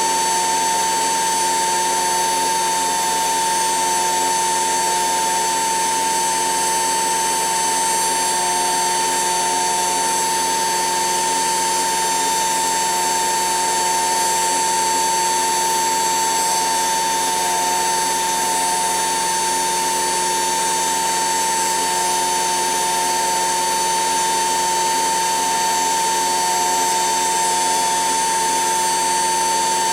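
A HUSTOO 775 DC motor fitted to a modified toy washing machine, running steadily at constant speed with a high, unchanging whine as it turns the drum through a pulley.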